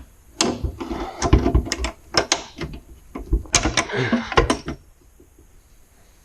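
Clatter of hand work in a garage: a quick series of knocks, clicks and rattles as tools and parts are handled, for about four seconds, then it goes quiet.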